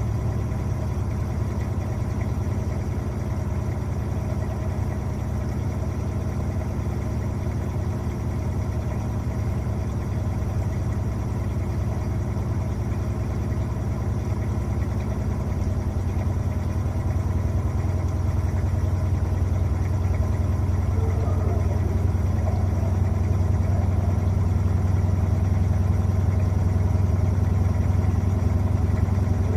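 Electrolux LTA15 washing machine running with a steady low motor hum that grows gradually louder over the second half.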